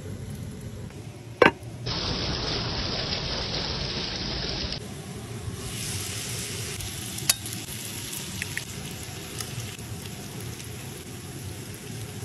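Sausage slices and tomatoes sizzling in a clay pot over hot coals. A sharp knock comes about a second and a half in, the sizzle is loudest for the next few seconds, then settles to a steadier hiss with a few pops.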